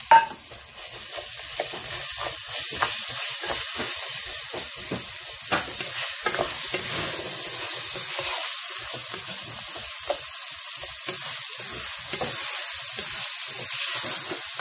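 Rice with frozen peas and carrots frying in hot oil in a pot, sizzling steadily while a wooden spoon stirs, scraping and knocking against the pot again and again. A sharp knock comes right at the start.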